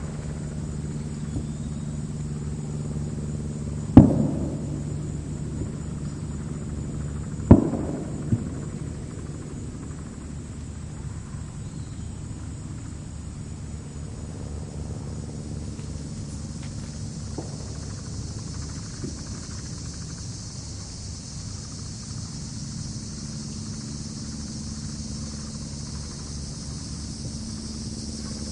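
Meadow ambience: a steady high chirring of crickets in the grass over a low, steady rumble. Two sharp thumps about four seconds and seven and a half seconds in are the loudest sounds, with a fainter knock just after the second.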